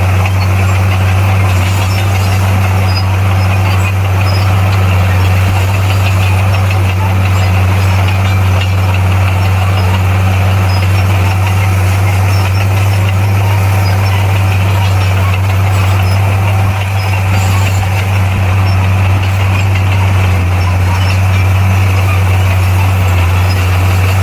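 Diesel engine of heavy earthmoving machinery running steadily with a constant low drone.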